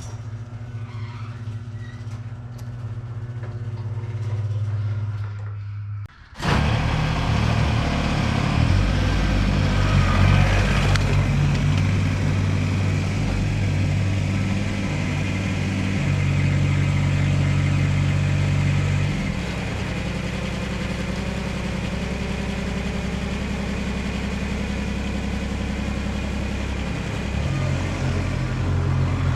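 An engine running steadily. About six seconds in it drops out for a moment, then comes back louder, with small changes in pitch later on.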